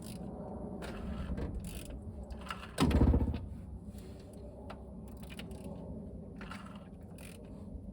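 A 1/2-inch drive socket ratchet clicking as the 454 big-block V8, parked for decades, is slowly turned over by hand at the crankshaft, with a louder clunk about three seconds in; the engine turns freely rather than being seized.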